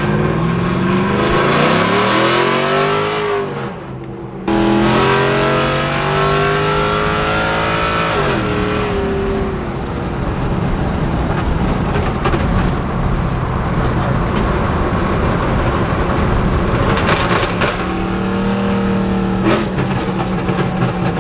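Pickup truck engine accelerating hard through the revs, its pitch climbing twice, then a loud steady rushing noise; the truck has just been fitted with 4.56 rear-end gears in place of 4.11s.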